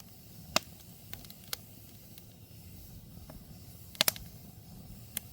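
Wood campfire crackling: a handful of sharp pops, a close pair about four seconds in the loudest, over a low steady rush of burning.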